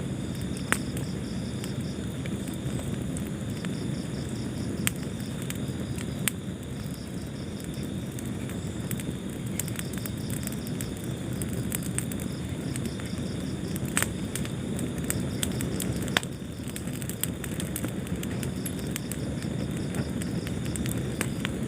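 Wood fire burning in a fireplace: a steady low rumble with scattered sharp crackles and pops. A faint, high, rhythmic chirping runs along with it.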